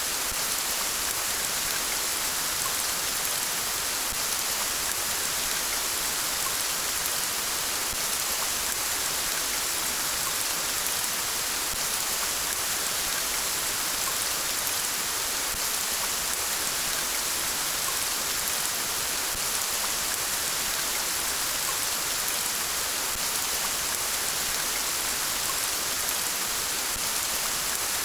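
Steady rain falling, an even hiss of many drops, strongest in the high range, with no thunder.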